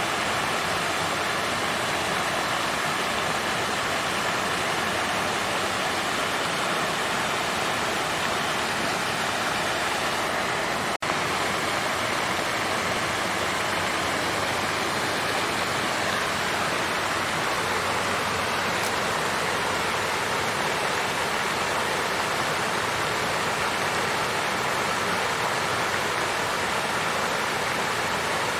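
Water fountain splashing and flowing in a steady, even rush. About eleven seconds in there is a single brief click where the sound drops out for an instant.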